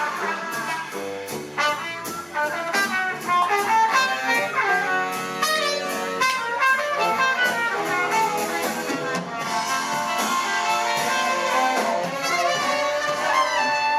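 Live jazz band playing an instrumental passage of a slow ballad, with horns carrying the melody and no singing.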